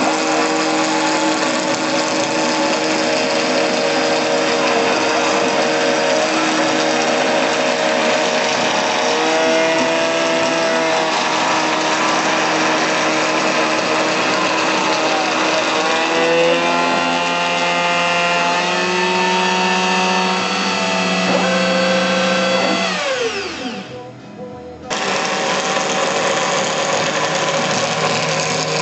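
Home-built CNC router milling acrylic with a 6 mm carbide cutter: the spindle runs steadily while the stepper motors whine in tones that step and shift as the axes move. About 23 seconds in, the tones glide steeply down and the sound drops away, then the full machine sound comes back abruptly about two seconds later.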